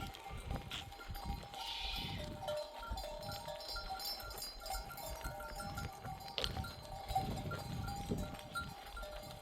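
A flock of sheep and goats on the move, many neck bells clanking and ringing all the time.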